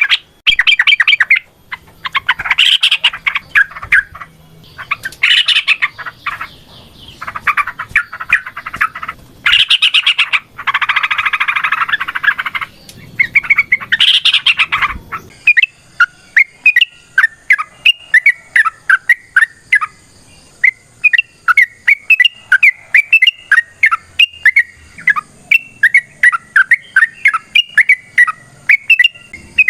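Yellow-vented bulbul (trucuk) singing its long, busy lure song. It starts with loud, dense chattering phrases and switches about halfway to a rapid string of short, bubbling notes, several a second.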